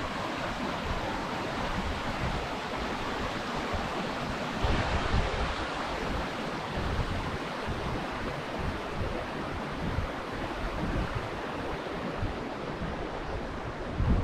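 Steady rush of a waterfall, with wind buffeting the microphone in low gusts, a stronger gust about five seconds in and another at the very end.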